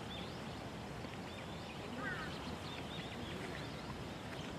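Small birds chirping over a steady low background rumble, with many short high calls and a short falling call about two seconds in.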